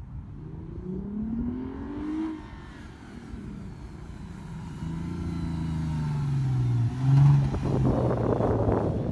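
Lexus IS300 with its mufflers removed (muffler delete), its raw exhaust note rising in pitch as it accelerates, easing off briefly, then climbing again. It is loudest about seven seconds in, followed by a rush of noise as the car goes by.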